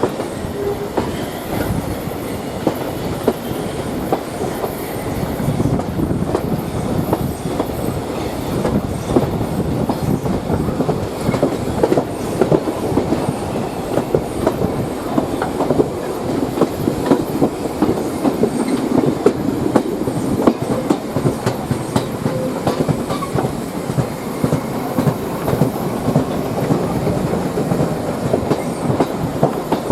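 Railway carriages or wagons rolling past, their wheels clattering steadily over the rail joints.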